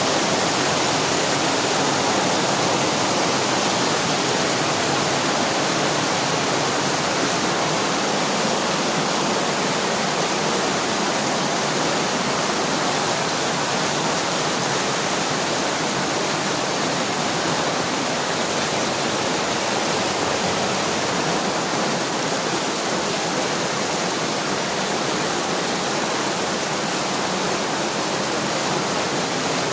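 Heavy rain falling hard, a dense steady hiss with no let-up.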